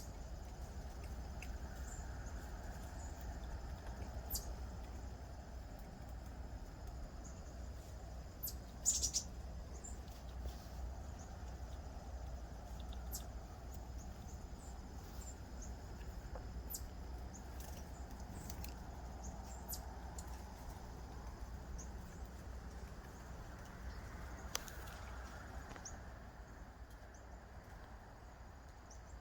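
Insects, crickets among them, chirring steadily, with a few short bird chirps scattered through; the loudest chirp comes about nine seconds in.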